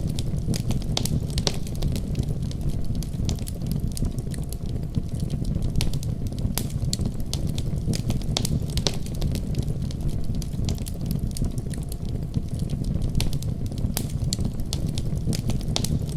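Wood fire crackling, with frequent sharp pops and snaps, over a steady deep rumble of storm wind.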